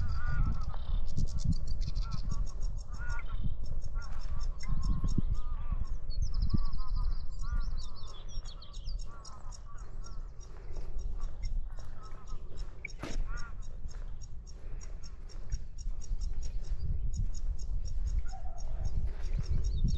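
Waterfowl honking repeatedly, about two calls a second, for the first several seconds, then mostly dropping away with one more short call near the end. Underneath is a low wind rumble on the microphone, with rapid high chirping of small birds throughout.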